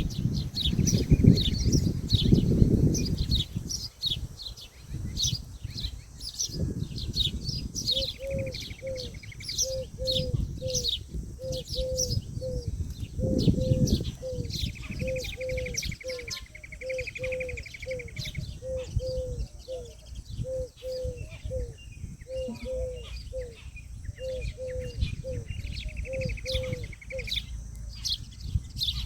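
Birds calling: a steady stream of quick, high falling chirps, with a short lower note repeated about twice a second through the middle and a few buzzy trills. Low rumbles of wind or handling noise come near the start and twice more.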